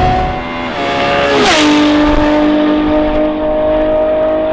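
Ferrari 812 Superfast's naturally aspirated 6.5-litre V12, breathing through a Novitec exhaust, under hard acceleration. Its pitch drops with an upshift a little under a second in and again at about a second and a half, the second with a short crack, then it pulls on through the next gear.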